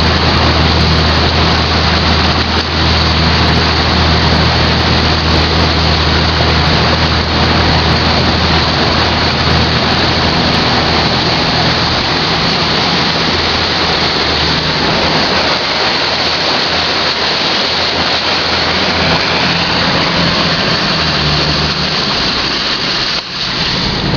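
A car driving through floodwater: a steady rush of water spray and splashing from the tyres over the low hum of the engine. The engine hum fades about halfway through and comes back briefly near the end.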